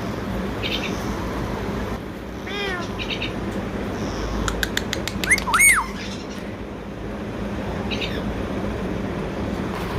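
Indian ringneck parakeet giving short, arching calls and chirps spread across several seconds, with a run of quick clicks and a louder whistled call that rises and falls about five seconds in.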